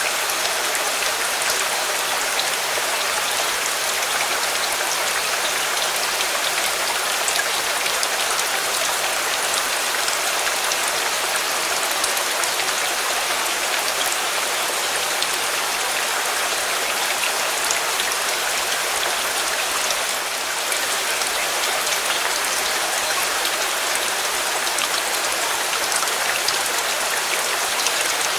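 Steady heavy rain, an even hiss with fine scattered pattering drops.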